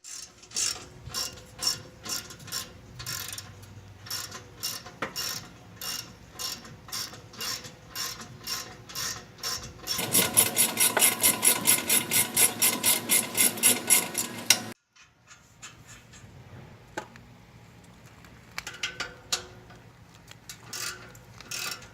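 Hand ratchet wrench clicking in repeated strokes as bolts are turned. Faster, louder clicking runs for about five seconds near the middle, then slower, fainter strokes.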